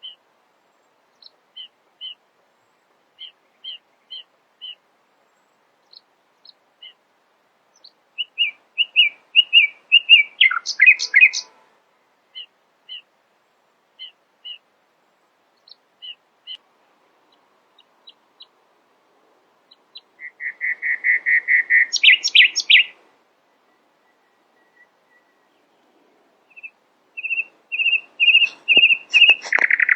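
A songbird singing: scattered single chirps, broken by three loud, fast runs of repeated notes, about eight, twenty and twenty-seven seconds in, each ending in a burst of higher notes.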